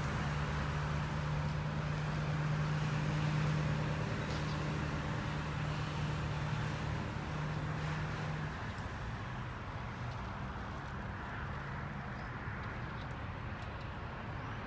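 A steady low engine hum that fades out about eight seconds in, over a constant background noise.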